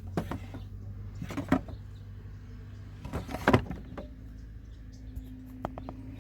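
Several sharp knocks and handling noises from working a heated sticker off a wooden dresser drawer, over a steady low hum.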